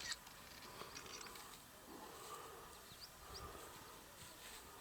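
Quiet bush ambience with a few faint, short, high chirps.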